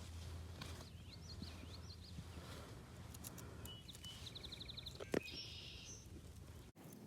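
Faint songbirds singing, with warbling phrases and then a quick trill of evenly repeated notes. A single sharp click about five seconds in.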